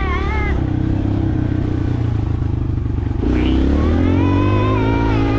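Dirt bike engine running while riding, its pitch and loudness rising about three seconds in as it accelerates.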